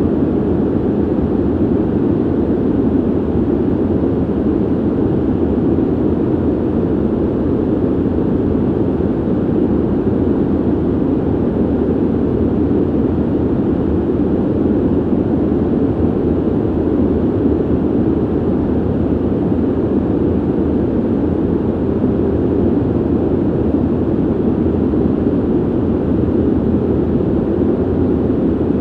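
Steady low ventilation noise, a constant airy rumble with most of its weight in the low-middle range and little hiss, unchanging throughout.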